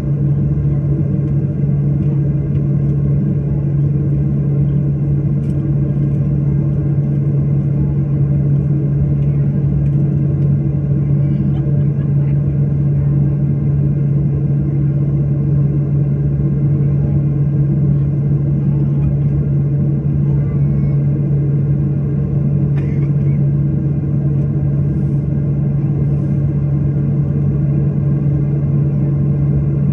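Airliner engines heard from inside the plane: a steady, unchanging low drone with a strong constant hum and no revving.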